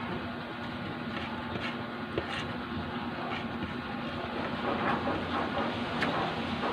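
Eating sounds: scattered soft clicks of utensils on a plate and chewing, over a steady background hum with a faint steady tone.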